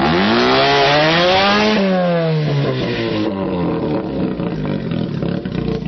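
Rotary (Wankel) engine of a VAZ 2108-based custom car revving up hard, peaking a little under two seconds in, then dropping back to a lower, steadier run.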